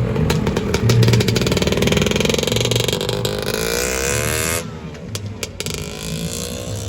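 Two-stroke Lambretta scooter engines accelerating as they pull away, the engine note rising in pitch. About four and a half seconds in the sound drops suddenly and another scooter's rising engine note follows.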